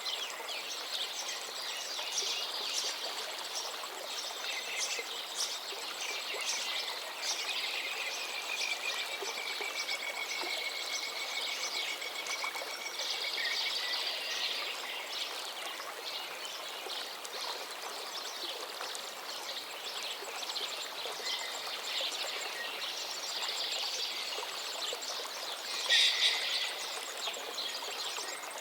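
Songbirds singing over the steady rush of a flowing stream. One long drawn-out whistled note holds for several seconds about a third of the way in, and a brief louder burst of song comes near the end.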